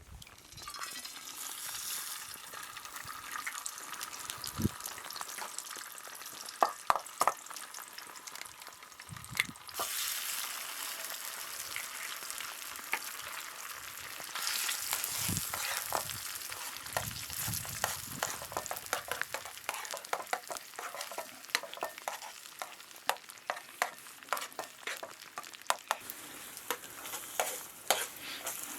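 Food frying in a pan over a campfire: a steady sizzling hiss with many sharp crackles and pops. The sizzle grows louder about ten seconds in and again a few seconds later, with a few dull knocks between.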